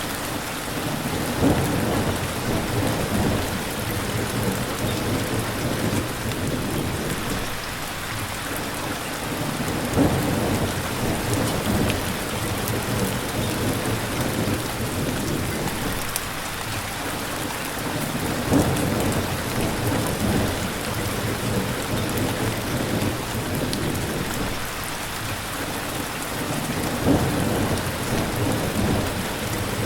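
Steady heavy rain, with low rumbles swelling up four times, about every eight or nine seconds.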